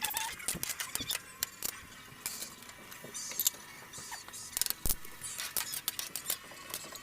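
Food crackling in a hot cooking pot: a dense, irregular run of small crackles and ticks, with a few louder clicks.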